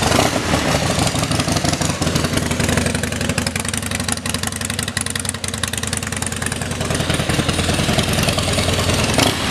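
Harley-Davidson Dyna Wide Glide V-twin idling steadily with a lumpy, even beat through aftermarket Screamin' Eagle exhaust pipes.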